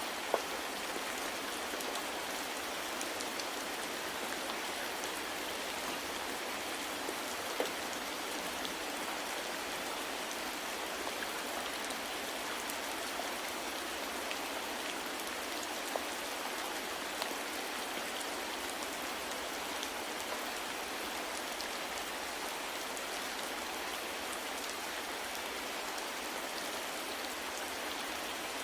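Steady soft rain falling, an even hiss with scattered individual drop ticks and a few slightly louder drops.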